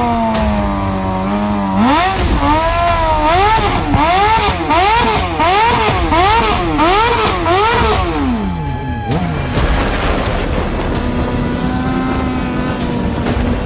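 Motorcycle engine revved over and over in quick throttle blips, about three every two seconds, with the pitch swinging up and down each time. About nine seconds in the revs fall away, and a lower, steady engine note follows.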